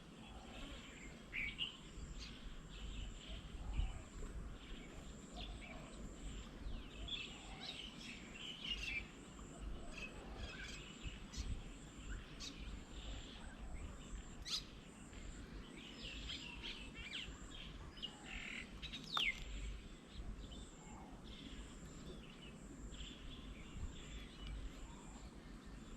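Small birds chirping and calling, with short, high notes and quick pitch slides scattered throughout, over a steady low background rumble.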